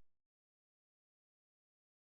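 Silence: the sound track goes blank as the last trace of background music dies away in the first instant.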